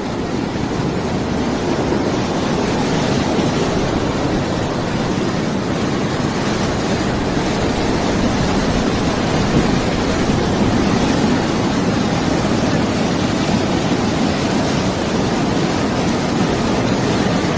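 Wind and sea of a subtropical storm: a steady, dense rush of wind and surf with no let-up.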